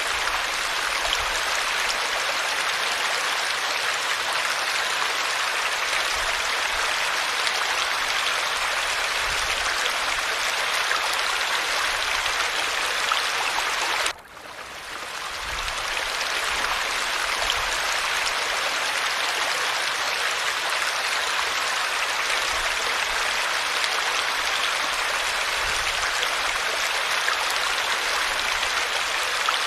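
Steady rush of falling water. It drops out abruptly about halfway through and fades back in over a second or two.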